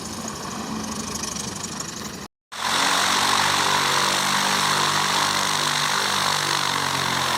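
Light aircraft's piston engine running steadily, heard from inside the cockpit. The sound drops out abruptly a little over two seconds in and comes back louder, an even engine tone under a strong hiss of propeller and air noise.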